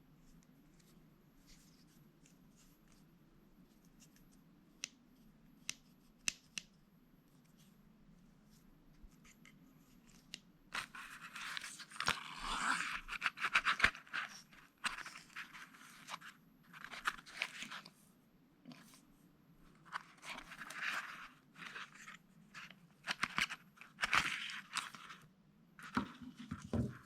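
Handling of a pair of fishing pliers and their packaging: a few sharp clicks, then from about eleven seconds in, repeated bursts of scraping and tearing.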